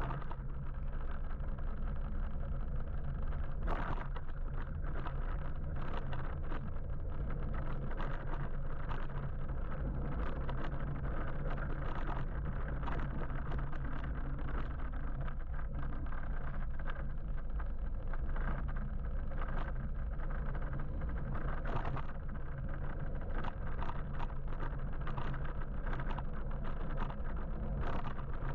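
Steady road and wind noise from riding an electric motorbike in traffic, with a low steady hum underneath and frequent small clicks and knocks.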